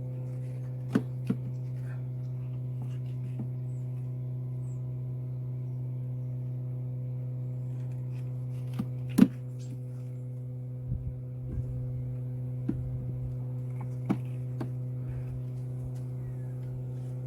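Steady low hum of a honeybee colony around the open hive. Sharp clicks and knocks from wooden hive frames being moved and set back in the box, the loudest about nine seconds in.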